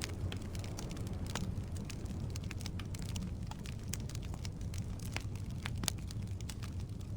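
Firewood burning in a fireplace: irregular sharp crackles and pops over a steady low rumble of flame, with one louder pop about six seconds in.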